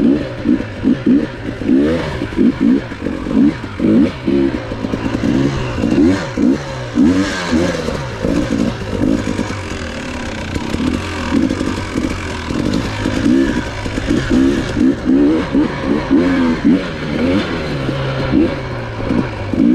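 Enduro dirt bike engine revving up and down over and over, its pitch rising and falling every second or so as the throttle is worked on a trail ride.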